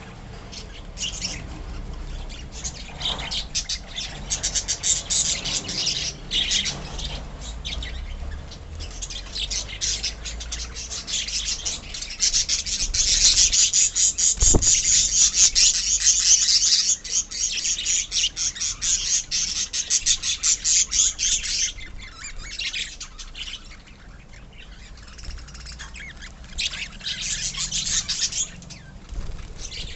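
A colony of lovebirds chattering and squawking, many birds at once in rapid high chirps, loudest in the middle stretch. A single short thump about halfway through.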